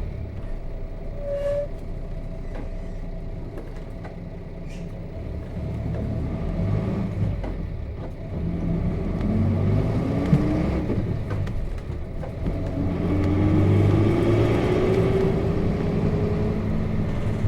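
Nissan Diesel RM bus's FE6 straight-six diesel heard from inside the cabin: it runs quietly at first, then revs up about nine seconds in, a sharp click comes as the gear changes, and the revs climb again from about thirteen seconds as the bus accelerates through the manual gearbox.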